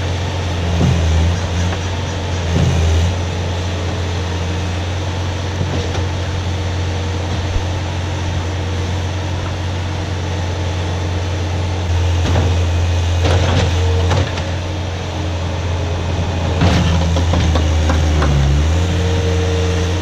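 Skid steer engine running steadily, with a brief dip and recovery in pitch near the end as it takes load, and a few clanks and rattles partway through.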